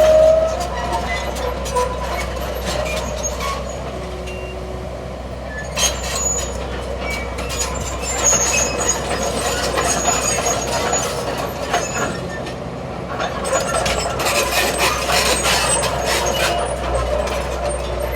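Earthmoving machinery at work: a diesel engine runs steadily under repeated metallic clanks and knocks, with short high-pitched squeals.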